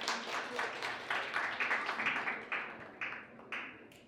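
Guests applauding together, the clapping thinning out and dying away near the end.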